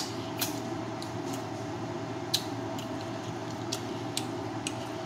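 Close-up eating sounds: chewing with sharp, wet mouth clicks and lip smacks at irregular intervals, over a steady background hum.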